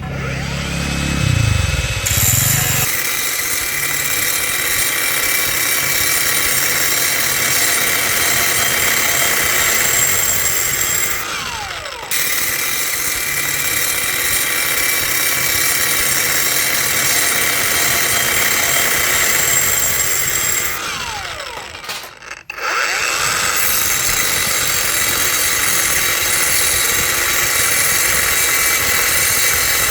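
Angle grinder cutting or grinding metal. It briefly winds down and restarts twice, its pitch falling as the disc slows and rising as it spins back up.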